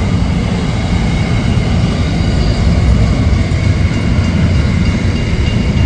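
Freight train's container wagons rolling slowly past, a steady low rumble of wheels on rail.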